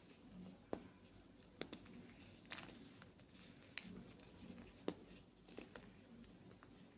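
White Reform gym chalk being crushed, giving sharp separate crunches and snaps about once a second over a faint background.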